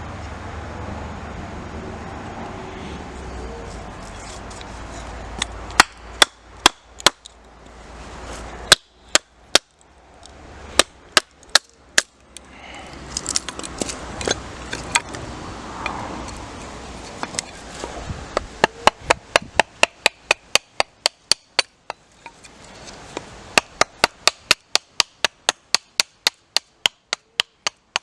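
Wood being chopped with a blade. First a few spaced, sharp blows, then quick, even runs of about four blows a second.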